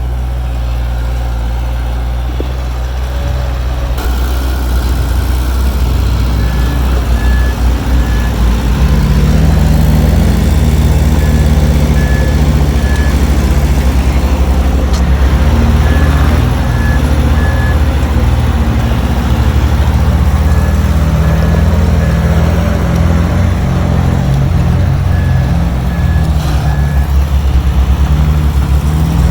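Heavy diesel engine of earthmoving machinery working steadily, growing louder a few seconds in. A backup alarm beeps in groups of three, repeating every few seconds.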